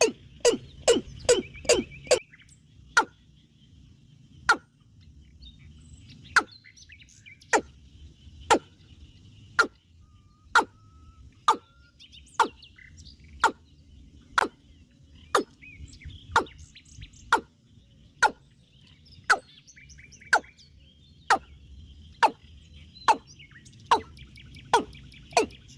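Sharp knocks struck in a steady rhythm: a quick run of about three a second at first, then about one a second, quickening again near the end. Birds chirp faintly underneath.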